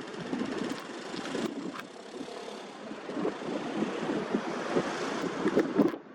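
Strong wind gusting and buffeting the microphone, a rough rumbling noise that swells and eases, strongest near the end before dropping off suddenly.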